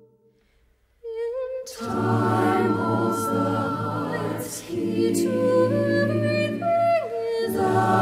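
Choir singing: after a near-silent second, one voice enters alone and a full choir comes in about half a second later, singing sustained chords.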